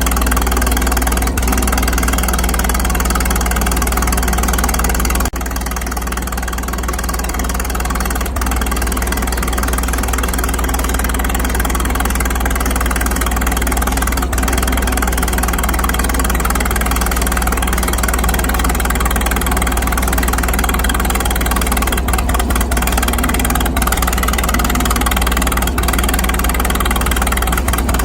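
Antique farm tractor engine running steadily at low speed, an even low drone that dips slightly about five seconds in.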